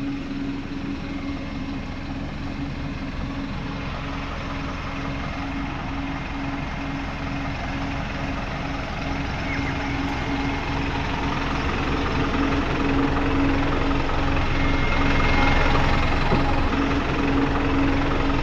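Isuzu NPS 4x4 truck's diesel engine running steadily at low speed, gradually growing louder toward the end.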